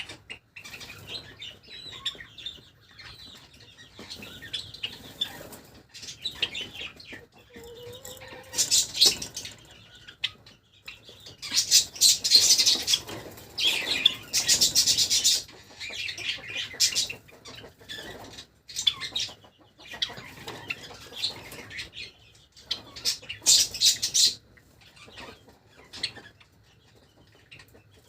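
Java sparrows fluttering their wings in several short bursts, the loudest around the middle and near the end, with soft chirps in between.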